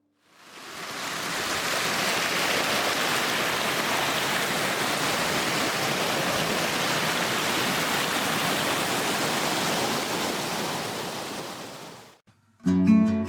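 Waterfall rushing in a steady roar of falling water, fading in at the start and fading out near the end.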